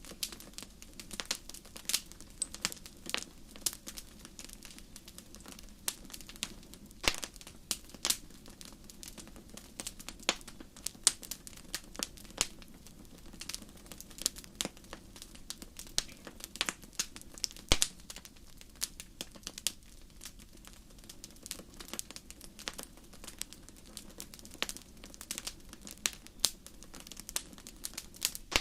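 Campfire crackling: burning wood giving irregular sharp snaps and pops, several a second, a few louder than the rest, over a steady low rush of the flames.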